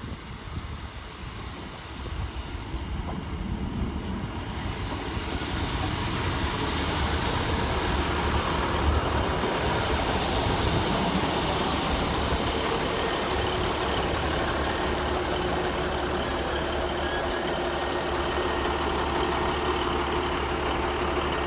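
Class 150 diesel multiple unit pulling into the station: the diesel running and wheels grow louder over the first several seconds, then hold steady with a low rumble and a few steady tones. Two brief hisses come in the second half.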